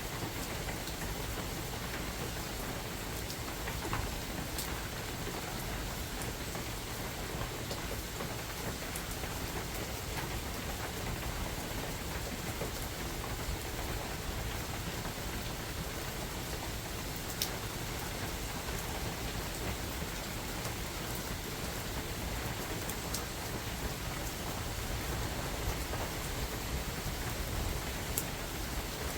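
Steady rain falling in a forest, with a few louder single drops striking close by now and then.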